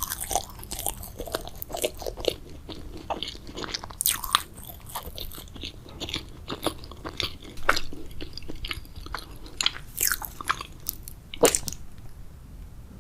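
Close-miked ASMR eating sounds of a purple grape jelly dessert: bites and chewing heard as a steady run of sharp mouth clicks and smacks, a few louder ones standing out, the loudest near the end.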